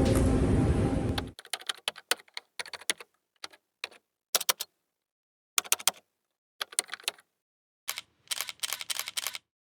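Background music cuts off about a second in, followed by keyboard typing clicks in short bursts with silent gaps between them.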